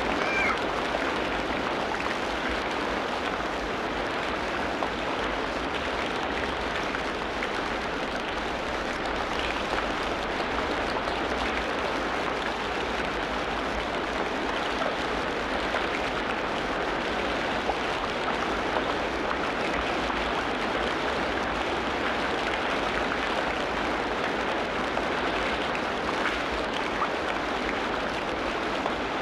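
Tropical rainforest ambience: a steady, even hiss of falling water like heavy rain on foliage. A short pitched animal call trails off right at the start.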